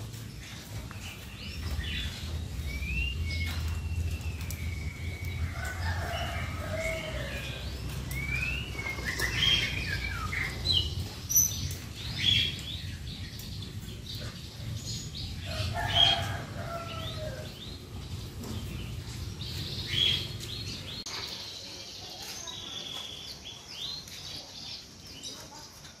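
Small caged songbirds chirping, with short whistled calls that slide in pitch, and wing flutters. A low rumble underneath stops about five seconds before the end.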